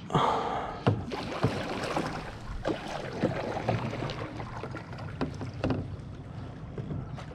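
Kayak paddling: a paddle dipping and pulling through lake water with splashing and dripping, and several sharp knocks at irregular intervals.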